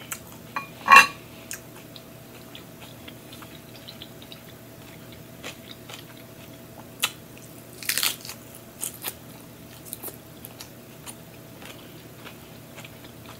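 Close-miked biting and chewing of crisp romaine lettuce wrapped around chicken salad, with short crunches scattered throughout and a loud cluster of crunching about eight seconds in. A sharp knock about a second in.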